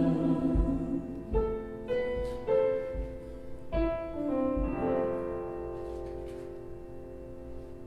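Piano playing the closing bars of a worship song: a few separate notes and chords, then a final chord held and left to fade away.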